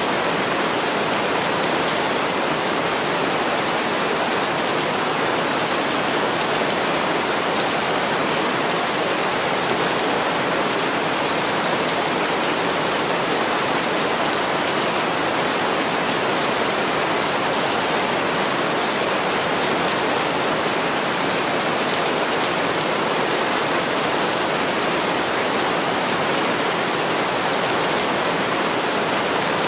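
Heavy rain pouring steadily on window glass, an even hiss with no breaks or changes.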